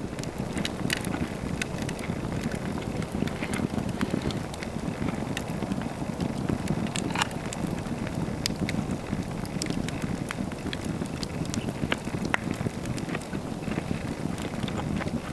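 Campfire burning, a steady low rush with scattered sharp crackles and pops.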